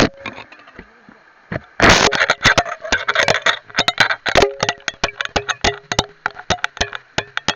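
Underwater camera on a fishing line knocking and scraping against stream rocks, heard through the water as many irregular sharp clicks and knocks, with a burst of rushing water about two seconds in.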